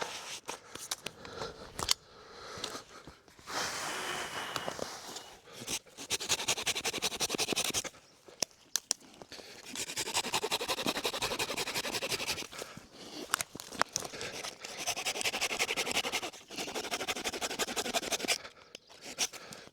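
Rapid rasping, scraping strokes in about four bursts of two to three seconds each, with short pauses and a few sharp clicks between them.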